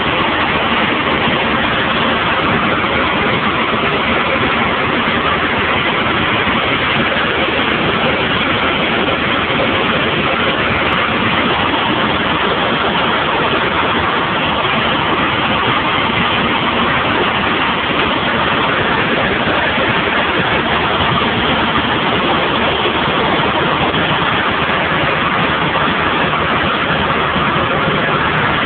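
Cessna 172 in cruising flight, heard from inside the cabin: a steady, loud drone of piston engine and propeller with rushing air, holding an even pitch and level throughout.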